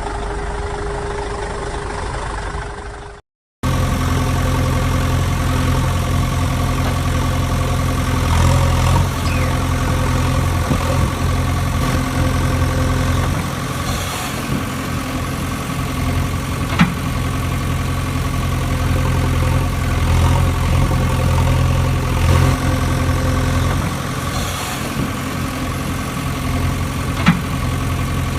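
Engine running steadily at idle with a low, even hum. The sound breaks off briefly about three seconds in and resumes, and two short clicks come later.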